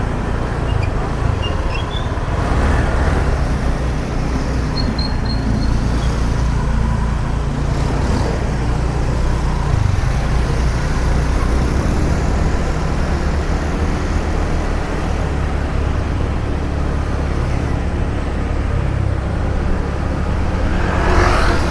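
Steady engine and road noise of a car driving along, heard from inside the cabin, with surrounding traffic.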